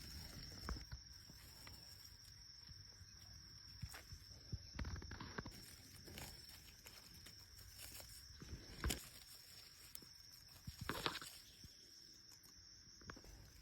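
Footsteps and rustling through leaf litter and undergrowth, with scattered snaps and a louder crackle about nine and eleven seconds in, over a faint steady high-pitched tone.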